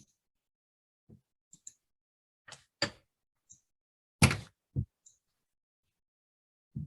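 A handful of separate clicks and knocks from a computer mouse and desk, the loudest about four seconds in.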